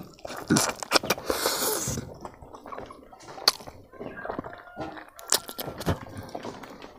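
Close-up chewing of a braised pig trotter with rice: wet, sticky mouth smacks and clicks as a bite is taken and chewed, with a short hiss about a second in.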